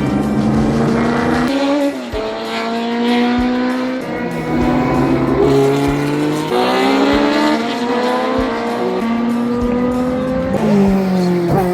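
1970s–early-1980s endurance racing cars accelerating hard past the track edge. Their engine pitch climbs through each gear and drops at each upshift, several times over. Near the end the pitch falls steeply.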